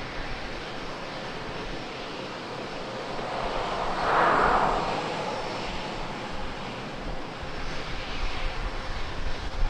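Jet airliner engine noise at an airport: a steady rush that swells briefly about four seconds in, then eases back.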